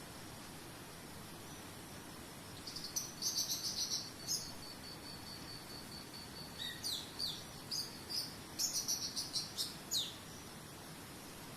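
A songbird singing in two spells of rapid chirps and quick downslurred notes, over a cricket's steady high pulsing trill and a faint even hiss.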